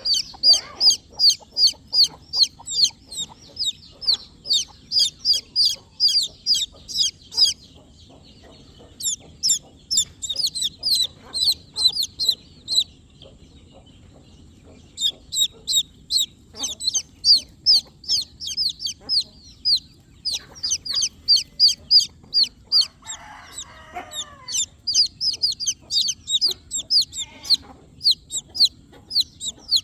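Baby chicks peeping: rapid, high-pitched, falling peeps, about three or four a second, in runs with short pauses between. About three quarters of the way through, a brief lower-pitched call sounds under the peeps.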